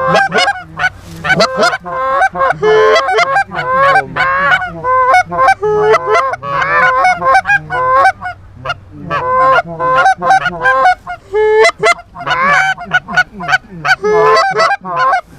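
Goose honks and clucks, many short calls overlapping in a rapid, nearly unbroken chatter, the sound of geese being called in to the decoys.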